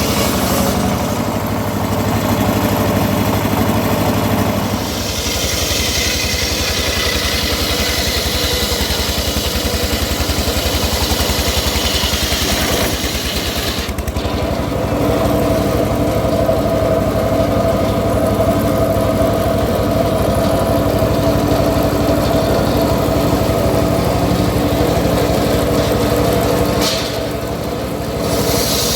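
Engine-driven homemade circular sawmill running steadily, its sound shifting about five seconds in, again midway and near the end.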